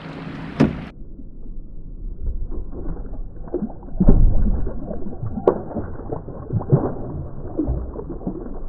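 Muffled water gurgling and sloshing with irregular knocks and clunks, the loudest about four seconds in. The sound turns dull and muffled about a second in.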